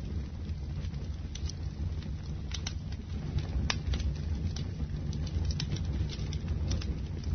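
Bonfire burning: a steady low rumble of flames with sharp, irregular crackles and pops from the burning wood.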